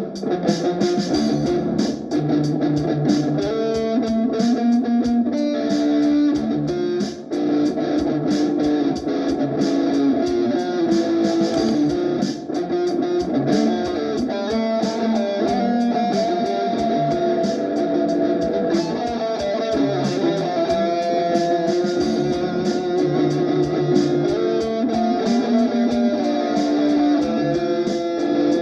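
Electric guitar played through a Valeton GP-200 multi-effects processor, improvising melodic lines over the unit's drum machine beat, with a steady high tick about three times a second.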